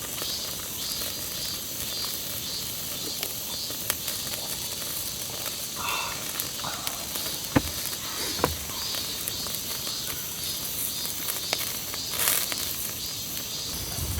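Meat sizzling as it cooks, a steady hiss with a few sharp pops and ticks.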